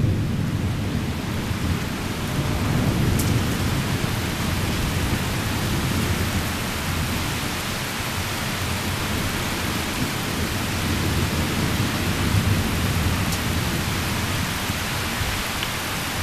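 Heavy rain pouring steadily in a thunderstorm, with a continuous low rumble underneath.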